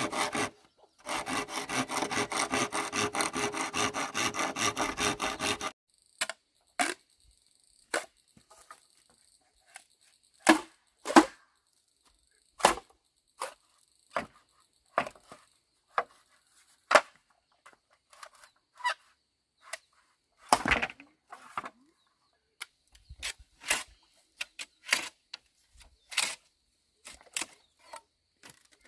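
Wood being sawn by hand in fast rhythmic strokes, with a short break, stopping just before six seconds in. After that come irregular single sharp knocks on wood.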